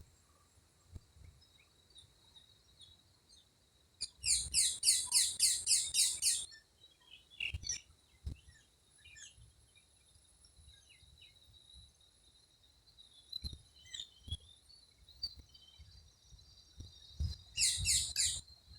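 A bird calling in two loud, rapid runs of repeated downward-sweeping notes, about four or five a second, the first about four seconds in and the second near the end. Scattered soft chirps from other birds fall in between, over a faint steady high-pitched tone.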